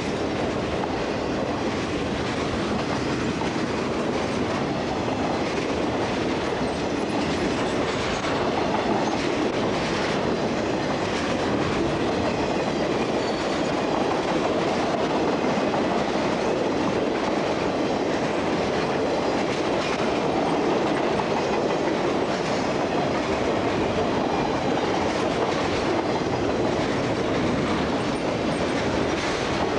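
Cars of a long CSX freight train rolling past steadily, their wheels clicking over rail joints.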